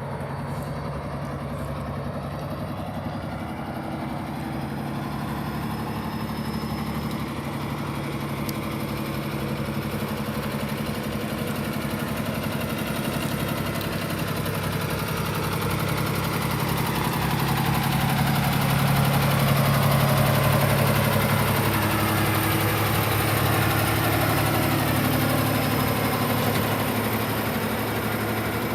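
Kenworth T680 truck tractor's diesel engine idling steadily, growing gradually louder toward about two-thirds of the way through, then easing slightly.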